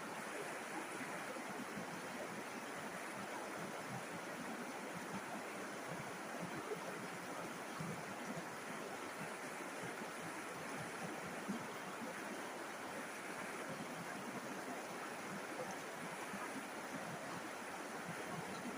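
River water flowing and splashing steadily over rocks, an even rushing with small splashes scattered through it.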